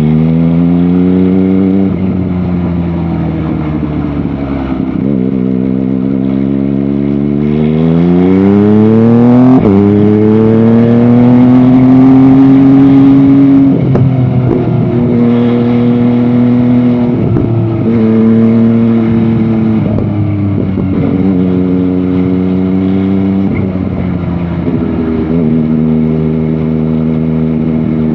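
MV Agusta Dragster 800 RR's three-cylinder engine pulling under acceleration, its pitch rising and then dropping sharply at each upshift. Later it runs at a fairly steady pitch that dips and recovers several times with throttle changes.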